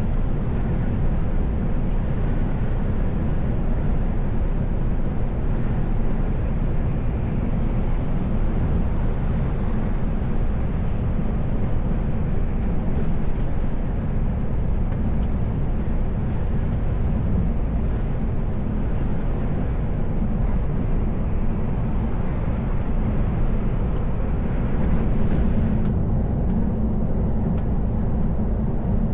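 Steady engine and road rumble inside the cab of a Mercedes Actros truck on the move, heaviest in the low end. About 25 seconds in, a brief hiss rises over it.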